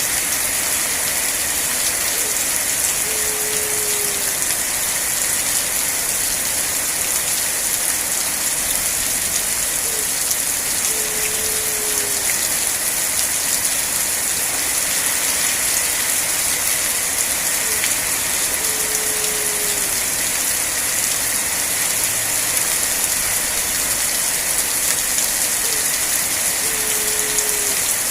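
Steady heavy rain, a dense even hiss. A short low tone slides downward about every eight seconds, four times.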